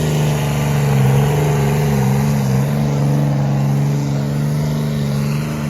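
Engine of a truck or tractor at a pulling competition, running at near-steady revs as a deep drone, its pitch dipping slightly about a second in before recovering.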